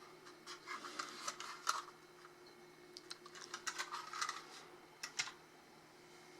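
Hands unpacking a vintage Lionel toy train car from its box: two runs of quick light clicks and rustles of cardboard and wrapping, then a pause near the end.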